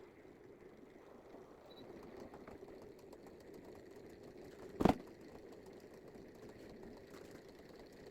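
A steady low mechanical hum, with a single sharp knock a little under five seconds in.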